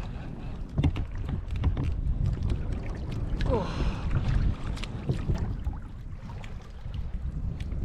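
Water sloshing against a kayak hull with wind buffeting the microphone, under scattered light clicks and knocks; a brief falling squeal comes about three and a half seconds in.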